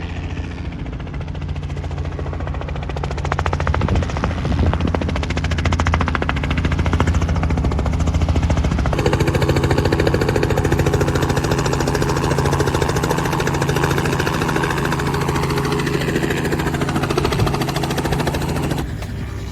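Helicopter close by, its rotor blades chopping rapidly over the steady hum of the engine, growing louder about three seconds in.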